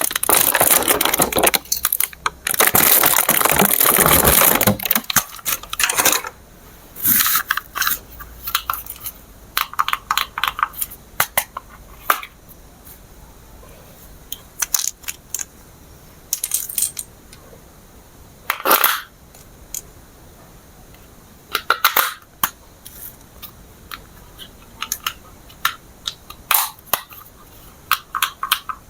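Plastic packaging crinkling and rustling for the first six seconds, then scattered sharp clicks and short rustles of small plastic parts being handled.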